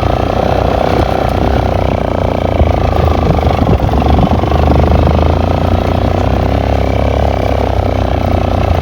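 Yamaha FZ-S V2 motorcycle's single-cylinder engine running steadily under way, with a strong low rumble of riding noise.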